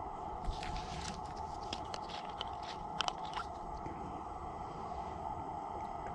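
A run of crunching, crackling clicks for about three seconds, loudest about three seconds in, then dying away, over a steady high-pitched hum.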